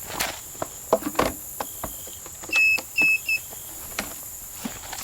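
A few clicks and knocks, then three short high electronic beeps from a car's warning chime, the first a little longer than the other two.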